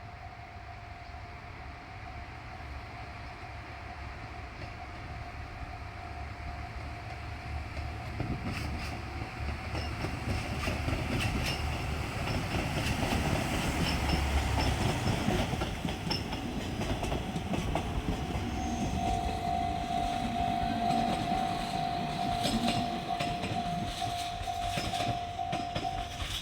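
A diesel multiple unit's engine and wheels rumble louder as the train comes near and passes over a level crossing, with wheel clicks over the rail joints from about a third of the way in. A steady level-crossing warning tone sounds throughout and grows louder in the second half.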